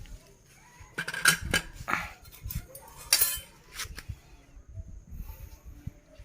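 Irregular metal clinks and scrapes, with loud clusters about a second in and again about three seconds in, as a motorcycle exhaust and hand tools are handled during fitting.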